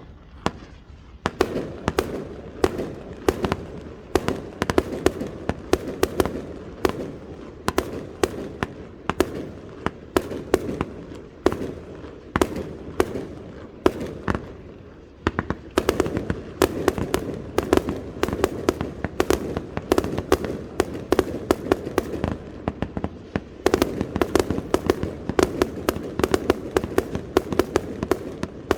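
Fireworks display going off in dense, unbroken barrages: many sharp bangs, several a second, over a continuous crackle, with a short lull about halfway through.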